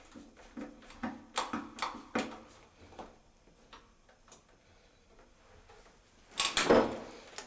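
Handling sounds: a few light clicks and knocks, then a louder rough scrape or rustle lasting about a second near the end.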